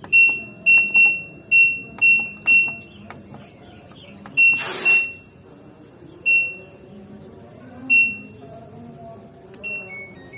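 LG washing machine control panel beeping as its buttons are pressed: about ten short, high beeps at uneven spacing, several in quick succession, then a two-note falling chirp near the end. A short burst of hiss comes about halfway through.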